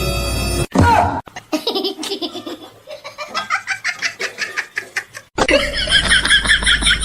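Music cuts off under a second in, then a person laughs hard in quick repeated bursts. After a cut near the end, another run of fast, high-pitched pulsing laughter-like sound starts.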